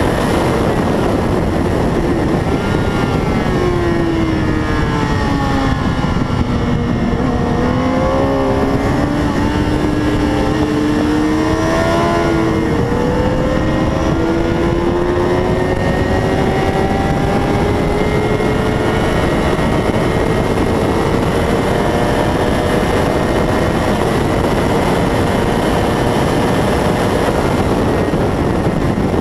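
A 600 cc racing motorcycle at speed, its engine note under a loud steady rush of wind noise. The engine's pitch dips a few seconds in, then climbs slowly and steadily.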